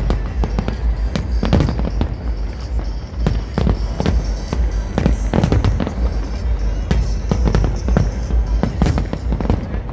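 Professional fireworks display: aerial shells bursting in a dense, irregular run of bangs, often several a second, over a steady low rumble.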